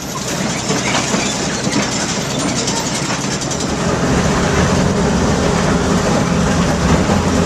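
A machine running steadily with a low hum and a dense rattling clatter, getting louder over the first few seconds.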